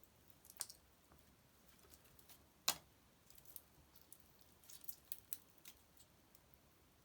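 Wood fire crackling in a fireplace: scattered sharp snaps and pops, one louder pop a little under three seconds in and a quick run of smaller crackles around five seconds.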